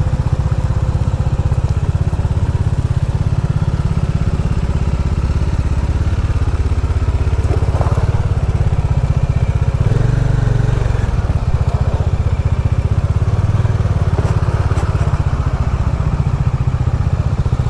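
Motorcycle engine running steadily, a deep even rumble, swelling briefly about ten seconds in.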